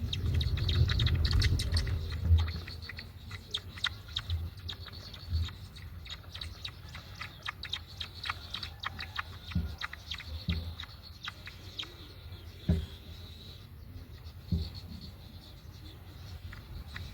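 Birds at a nest: many short chirps and rustling ticks, with a low rumble during the first two seconds.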